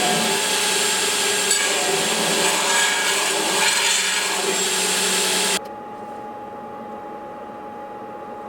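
An electric shop power tool running steadily at speed, stopping abruptly about five and a half seconds in. A quieter steady hum with a single tone remains after it.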